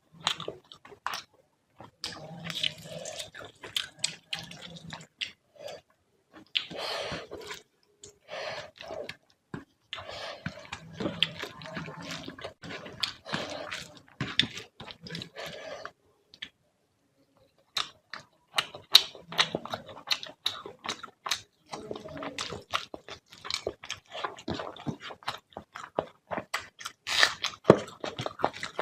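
Close-miked eating: wet chewing and lip smacks of fish curry and rice, with irregular sticky clicks, briefly pausing about two-thirds of the way through.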